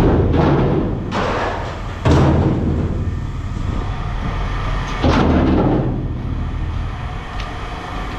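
Scrap metal being dropped or thrown down: three heavy metal impacts about two to three seconds apart, each ringing briefly, over a steady low rumble.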